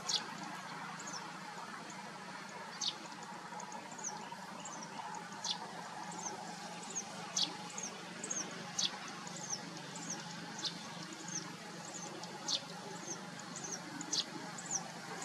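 Small birds chirping in a wetland: many short, high chirps, with a sharper downward-sweeping call every second or two, over a steady low hum.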